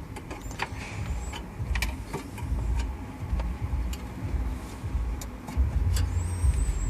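Scattered sharp clicks and taps of a screwdriver working the metal tabs of a car stereo mounting cage, over a low rumble that grows louder about halfway through.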